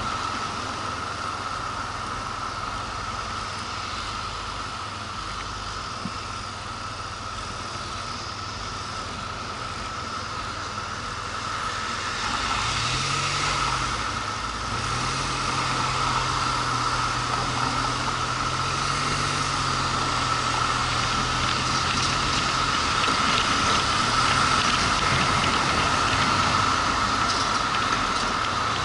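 Motorcycle on the move: steady wind and road noise on the microphone. About twelve seconds in the engine's low note comes up louder, rising and falling in pitch as the bike speeds up and slows.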